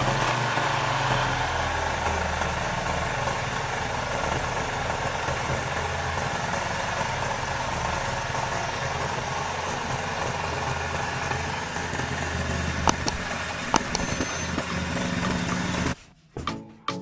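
Restored Honda GX160/200 single-cylinder, air-cooled OHV four-stroke engine running steadily at idle, with a couple of short clicks around two-thirds of the way in. The sound cuts off suddenly about a second before the end.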